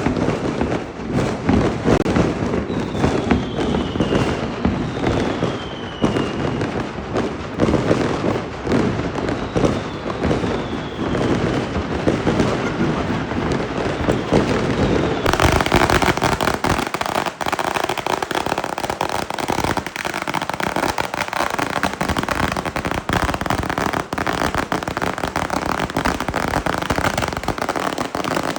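A fireworks barrage going off nonstop as a dense run of pops and crackles, with a few whistles falling in pitch in the first half. About halfway through it turns into a thicker, sharper crackling.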